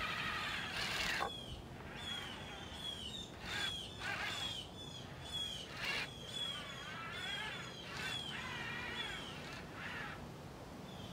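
Birds calling outdoors: one repeats a short, high, downward-slurred note about twice a second, while others give wavering calls near the start and again later on.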